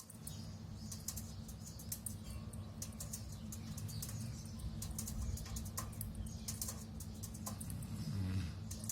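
Birds chirping: many short, high-pitched chirps at an irregular pace over a low, steady rumble.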